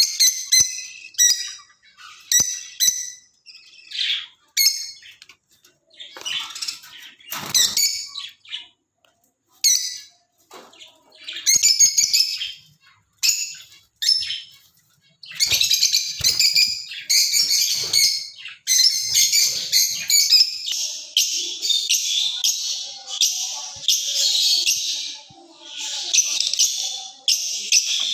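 A flock of lovebirds, Fischer's lovebirds among them, chirping and chattering in high-pitched calls. They come in separate short bursts at first, then run almost without pause from about halfway on.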